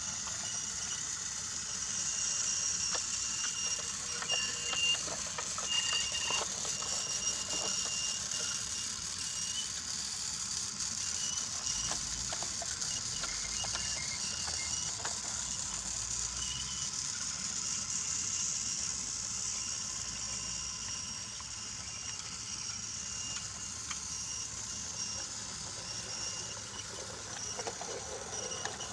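Brio toy train running along wooden track: a steady high whine with light clicks and rattles of the wheels and cars over the track.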